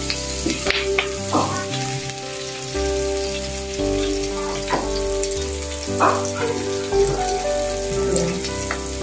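Sliced shallots, garlic, chillies and curry leaves sizzling in hot oil in a non-stick wok, with scattered pops and a spatula stirring through them at the start.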